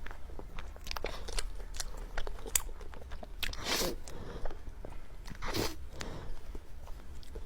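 Close-miked eating sounds of a person biting and chewing soft cake, with many small sticky mouth clicks and two longer, louder chewing smacks partway through.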